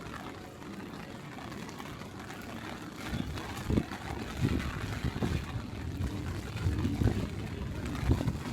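Typhoon wind gusting against the microphone, with low irregular buffeting starting about three seconds in, over a steady hiss of rain and street noise.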